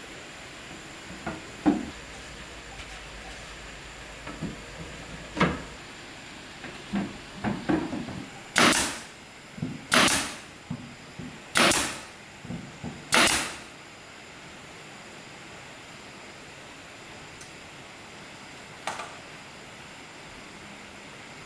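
Light knocks and taps on wood, then four heavy blows about a second and a half apart, each ringing briefly.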